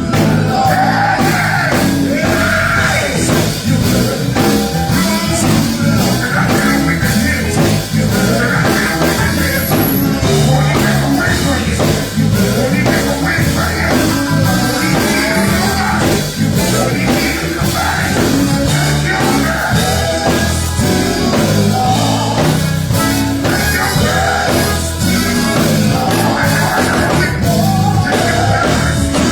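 Live gospel band music with drum kit, played loudly and without a break, with singing over it.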